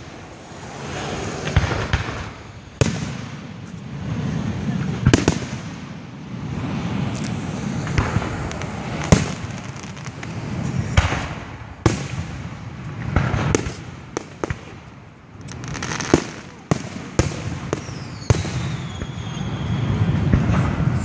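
Aerial fireworks display: a dozen or more sharp bangs from bursting shells, spaced irregularly, over a steady low rumble, with a whistle falling in pitch near the end.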